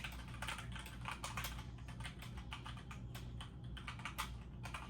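Typing on a computer keyboard: a quick, irregular run of key clicks, over a faint steady low hum.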